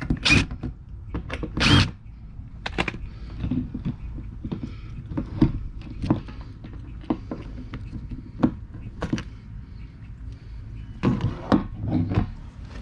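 Irregular knocks, clicks and scrapes as a camera is handled and pushed down into the opening of a boat fuel tank, with a louder cluster of knocks near the end.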